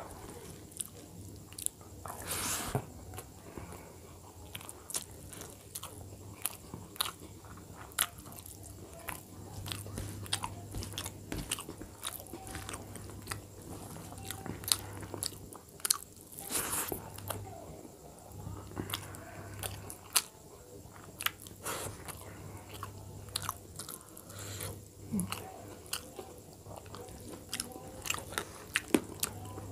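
Close-up eating sounds: a person chewing mouthfuls of rice and dal, with many sharp, irregular lip smacks and mouth clicks. Two longer, louder noisy bursts come a couple of seconds in and about halfway.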